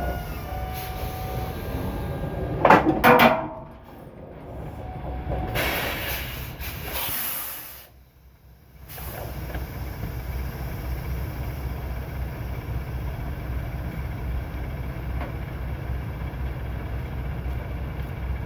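Semi-truck's diesel engine idling steadily. About three seconds in there is a brief loud mechanical screech and clank, and a rushing hiss of air follows around six to seven seconds in.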